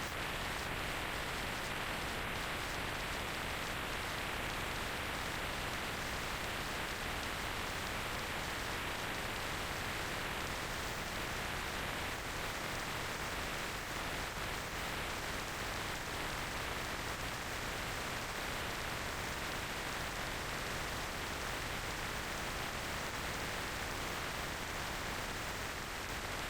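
Steady rushing wind noise on the microphone of a moving motorcycle, an even hiss with no engine note standing out.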